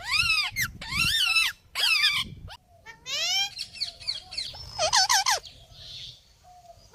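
A parrot calling: a string of loud calls that each rise and fall in pitch, about one a second at first, then a rising sweep about three seconds in and a quick run of short notes about five seconds in.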